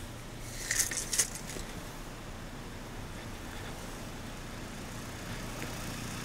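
Steady low rumble of a plow truck's engine idling, with a few brief crisp rustling clicks about a second in.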